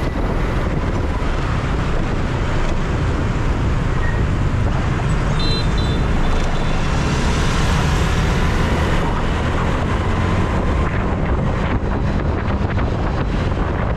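Road traffic and wind rushing over the microphone of a moving motorbike in city streets, a steady dense noise, with a brief high tone about five and a half seconds in.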